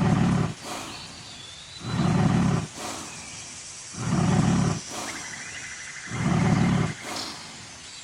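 Lion roaring: four deep calls, each under a second long, repeated about every two seconds.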